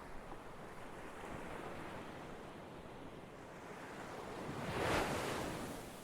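Ocean surf: a steady wash of waves, with one wave building to a break about five seconds in and then receding.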